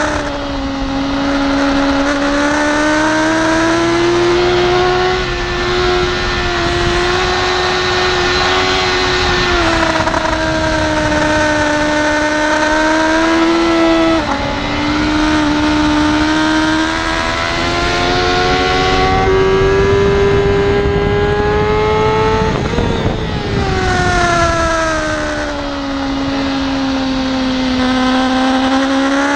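BMW S1000RR inline-four engine heard onboard at track speed, its pitch rising and falling with the throttle: a quick upshift about halfway through, then a long fall while slowing for a corner and a rise again near the end. Wind rush sits steadily under the engine.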